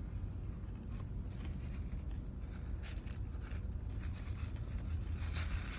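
Steady low rumble of a car's engine idling, heard inside the cabin, with faint scattered clicks of chewing and handling food.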